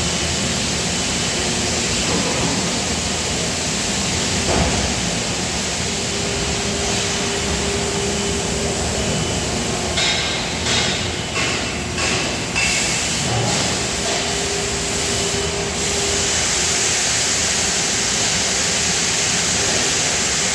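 Steady industrial machinery noise in a die-casting plant, with a faint steady hum coming and going. A knock sounds about four seconds in, and a short run of metallic knocks comes about halfway through.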